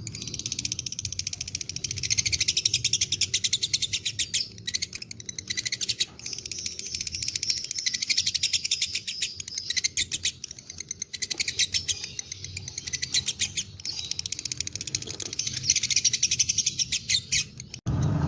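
Lovebird giving long 'ngekek' chattering runs: very rapid, high-pitched repeated notes in stretches of several seconds with brief breaks between them. The sound cuts off abruptly just before the end.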